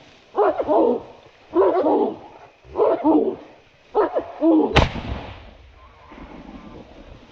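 Hunting dogs barking steadily at a bailed feral pig, a bark about every second, then a single loud shotgun shot just under five seconds in, after which the barking stops.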